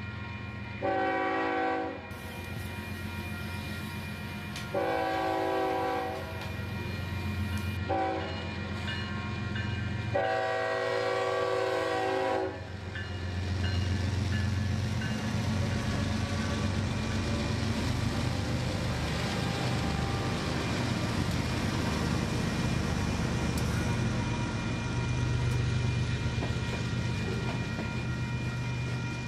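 Train horn sounding the grade-crossing pattern: two long blasts, a short one and a final long one. It is followed by the steady rumble of a passing freight train.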